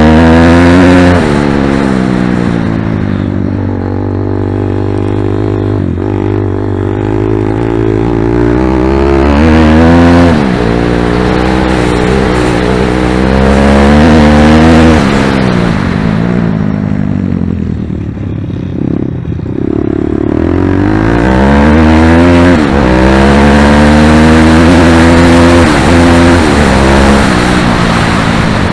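Pit bike engine revving hard through the gears on a lap: the pitch climbs in repeated rising sweeps and falls back as the throttle is rolled off. About two-thirds of the way through it eases to a quieter lull, then revs up again.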